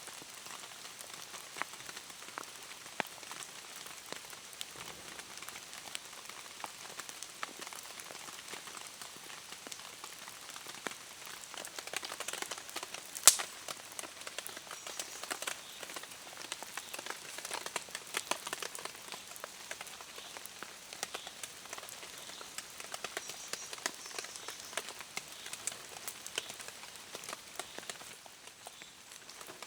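Rain falling in a forest, a steady hiss with many individual drops ticking and pattering. One sharp, louder tick about thirteen seconds in.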